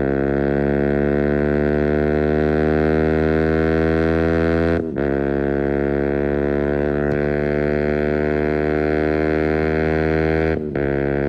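Keeway RKF 125 single-cylinder engine running through an open Mivv exhaust with the dB killer removed, pulling under load with its pitch creeping up. The note dips briefly at gear changes about five seconds in and again near the end.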